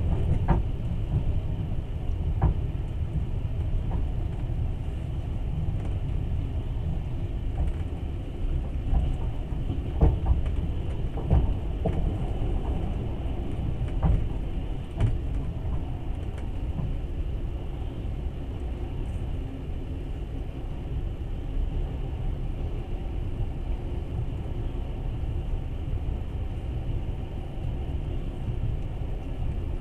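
Passenger train carriage running along the track, heard from inside: a steady low rumble of wheels on rails, with occasional sharp knocks, most of them in the first half.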